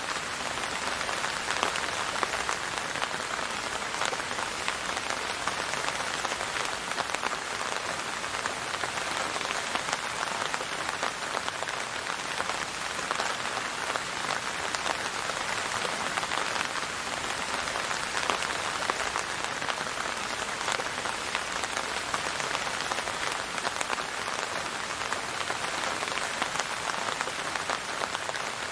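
Steady rain falling on a hard surface, an even patter of many individual drops with no pauses.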